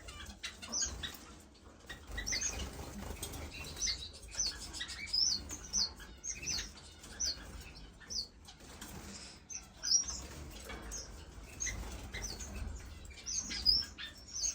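Small cage finches chirping with many short, high calls, mixed with the flutter of wings as they move about the cage.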